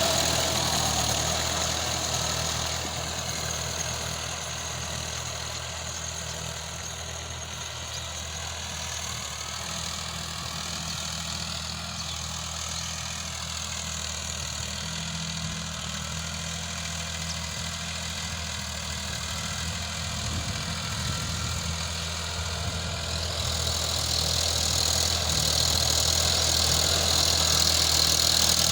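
Sonalika RX 50 tractor's diesel engine idling steadily, a little quieter through the middle and louder again near the end.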